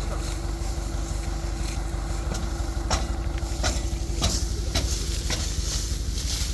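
Combine harvester engine running steadily with a low hum and a held tone, overlaid by irregular crackling and rustling, louder and more frequent in the second half.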